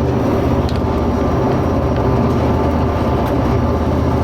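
Steady, loud drone of a passenger hydrofoil's engines, heard on board while the craft runs at speed: a constant low hum made of several held tones, with rushing noise over it.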